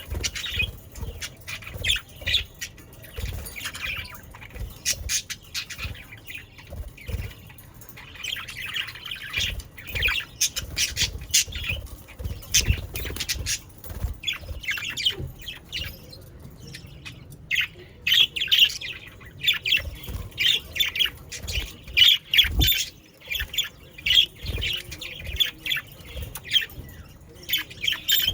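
A flock of budgerigars chattering, chirping and squawking continuously, with the calls thickest in the second half.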